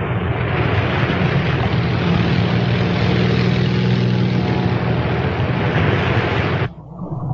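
Propeller aircraft engine noise: a loud rush over a steady low drone. It cuts off suddenly near the end, leaving a quieter rumble.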